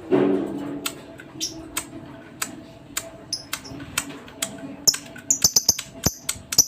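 Lovebirds chattering: a string of sharp, clicky chirps and squawks that thickens into a fast, dense run about five seconds in.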